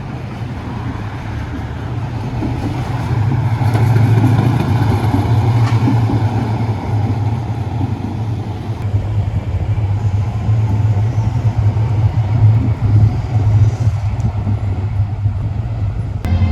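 A vehicle rumbling past in a street, a steady low drone that swells about three seconds in and holds.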